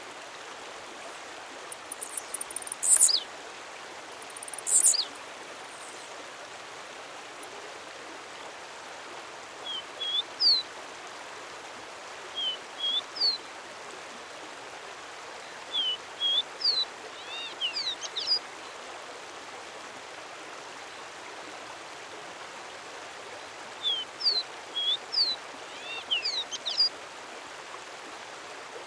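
A songbird singing: short phrases of quick, thin, high notes that rise and fall, in bursts a few seconds apart, over a steady rushing background noise. A few very high, short chirps come in the first few seconds.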